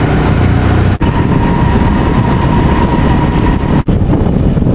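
Motorcycle engine running under way with rushing road and wind noise, steady and heavy in the low end. The sound cuts out for an instant twice, about a second in and near the end.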